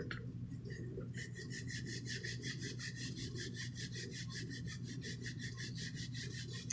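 Rapid, even back-and-forth shading strokes of a drawing tool rubbing on paper, about six or seven strokes a second, starting about a second in, over a steady low hum.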